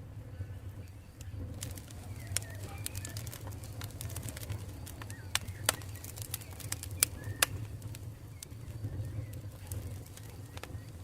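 Campfire burning with a steady low rumble and scattered crackles and sharp pops, the loudest pops a little past the middle. Faint short chirps sound in the background.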